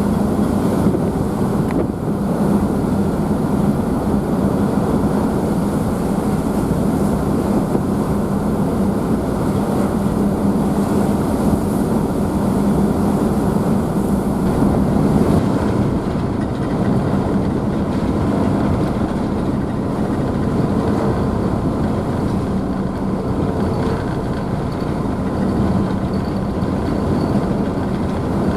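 Ferry engines droning steadily with a constant low hum, mixed with the rushing water of the wake and spray, heard from the rear deck.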